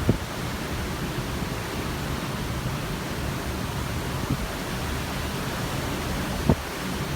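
Steady rush of wind and ocean waves, with three brief low thumps of wind gusts hitting the microphone.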